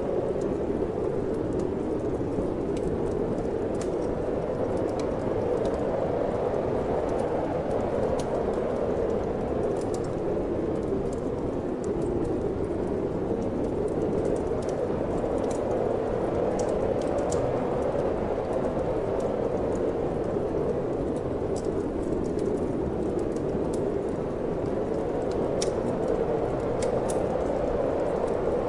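Steady wind noise with scattered small crackles and pops from a wood fire burning in a fireplace.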